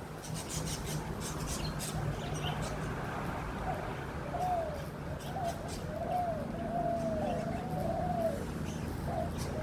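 A dove cooing: a quick run of short notes that each rise and fall, starting about three and a half seconds in, over a steady low rumble.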